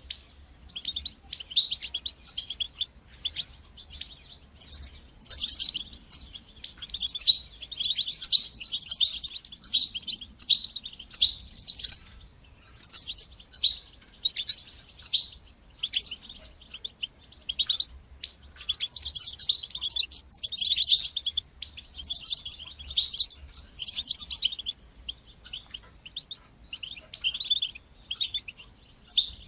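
European goldfinch singing: fast, high twittering phrases of quick repeated notes, separated by short pauses.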